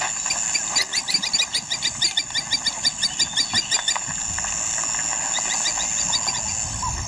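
African bush ambience: a steady, high insect drone with a rapid run of repeated animal chirps, about six a second, from about a second in for some three seconds, and a shorter, fainter run later on.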